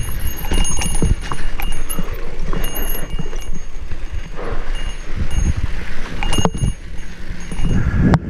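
Mountain bike rattling down rough single-track, with repeated clicks and knocks from the bike, and wind rumbling on the microphone.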